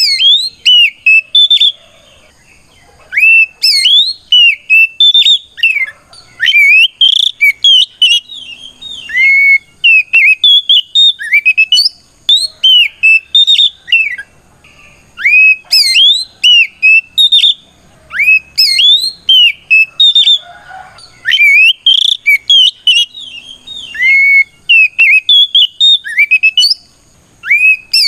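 Oriental magpie-robin singing loudly: quick runs of clear whistled notes that slide up and down, in bursts of a second or more with short pauses between. It is the full, open challenge song that a male sings to call out a rival.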